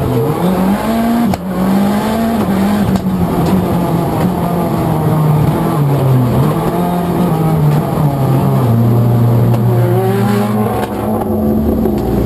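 Race car engine running hard, its pitch climbing and dropping as it revs and shifts, with a sharp crack about a second and a half in. Near the end it settles to a steadier, lower note.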